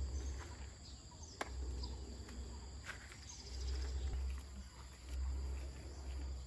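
Insects trilling steadily in the background over a low rumble that swells and fades every second or two, with a couple of faint clicks.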